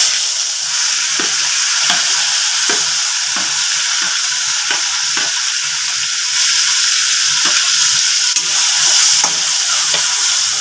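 Ground onion paste frying in hot oil in an iron kadai, a steady loud sizzle. A metal spatula stirring it gives faint scrapes and knocks every half second to a second.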